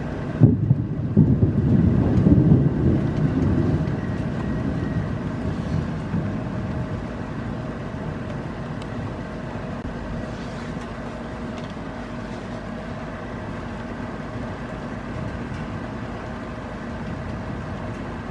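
Thunder: a sudden clap about half a second in, rumbling for a few seconds and fading away, over steady rain.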